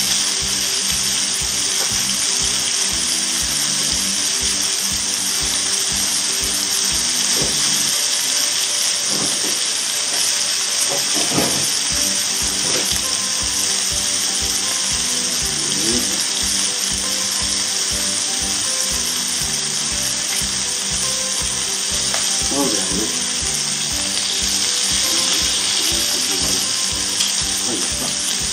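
Duck breasts sizzling steadily in a frying pan, with background music that has a steady beat underneath.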